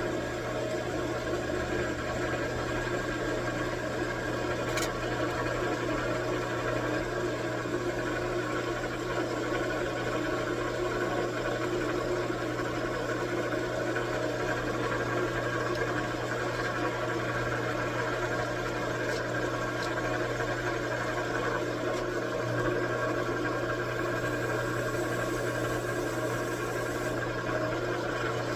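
Metal lathe running steadily with an even machine hum, turning down bar stock.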